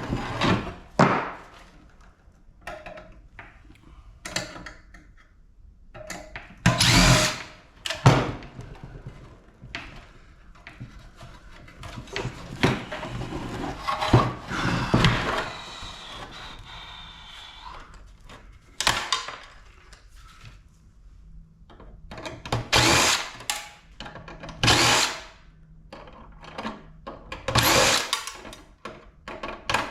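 Power drill running in short bursts of about a second, with knocks and clanks of metal between them, as screws are driven out of an air-conditioning unit's casing.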